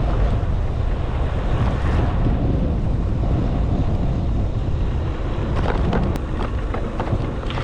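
Wind buffeting the microphone of a camera carried on a moving bicycle: a steady, loud rumble.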